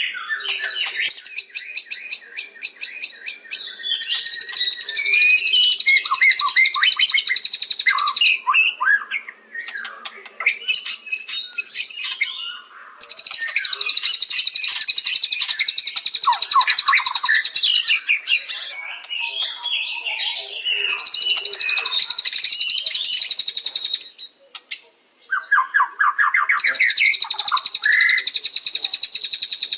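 White-rumped shama singing: varied whistled and chattering phrases alternate with long, rapid, very high trills lasting several seconds each, four of them.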